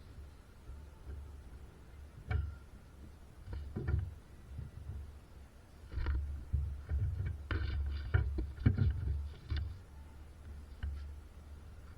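Irregular knocks and clatter, a few single hits and then a busier run of them through the middle, over a steady low hum.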